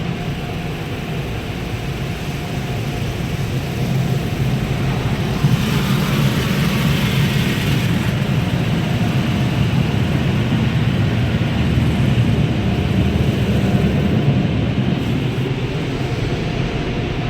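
Automatic drive-through car wash machinery heard from inside the car during the clear-coat stage: a steady rushing noise with a low hum, louder from about four seconds in, with a brief brighter hiss around six seconds in.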